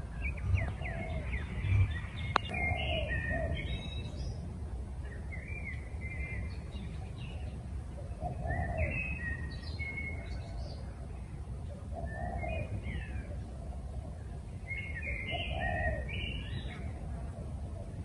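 Birds calling: short clusters of high chirps and warbling notes come back every three seconds or so, each with a lower, rounder call beneath it, over a steady low outdoor rumble. A single sharp click sounds about two and a half seconds in.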